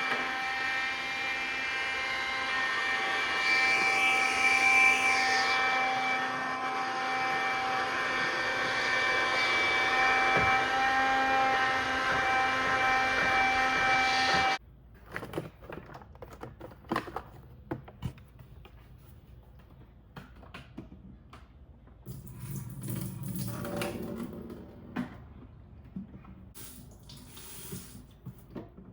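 iRobot Scooba 390 floor-scrubbing robot running with a steady whine of several fixed tones, then cutting off suddenly about halfway through. After that come quiet clicks and knocks and a short stretch of water sounds.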